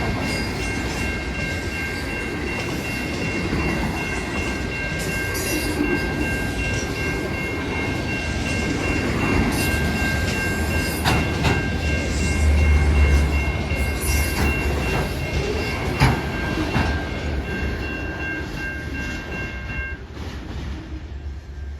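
A train passing close by with its horn sounding one long, steady three-note chord that cuts off near the end. Under the horn, the wheels rumble and knock over the rail joints.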